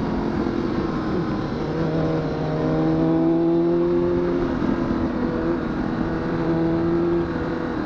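Honda CBR1000RR (SC57) inline-four engine running steadily while riding, with wind rush over it; the engine note shifts in pitch a couple of times.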